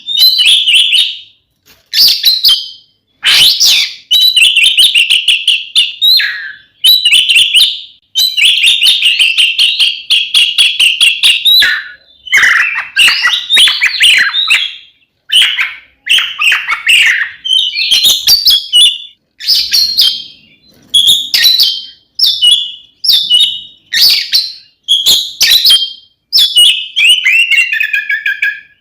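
Oriental magpie-robin (kacer) singing loudly in aggressive fighting song: repeated bursts of fast trills and whistled phrases with short pauses between them, and a falling phrase near the end. This is the territorial 'tarung' song that provokes rival magpie-robins.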